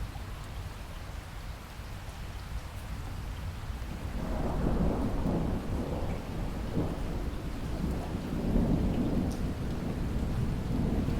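Steady rain, joined about four seconds in by a long roll of thunder that swells and rumbles on.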